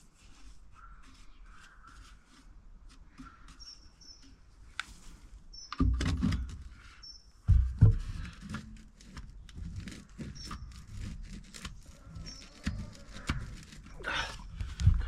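Scattered clicks and knocks, like handling work, with heavier thumps about six and eight seconds in and again near the end. A few short, high bird chirps are mixed in.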